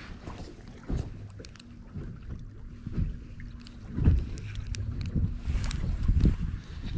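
Wind buffeting the microphone on a fishing boat, with several dull knocks and bumps on the hull and a faint steady hum through the middle.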